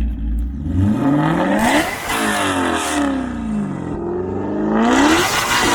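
Maserati GranTurismo MC V8 with a long high-merge F1-style exhaust pipe, revving up and easing off twice, its pitch rising and then falling each time.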